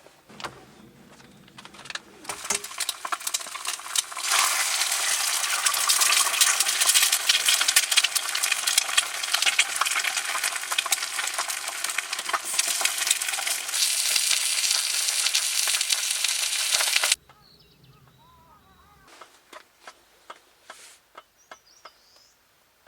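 Food sizzling and crackling as it fries in a hot pan, loud and dense from about four seconds in, then cutting off suddenly about seventeen seconds in. A few light clicks follow.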